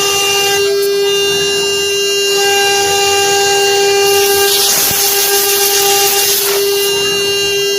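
CNC router spindle running at a steady high whine while engraving wood, with a stretch of louder hiss from about four to seven seconds in.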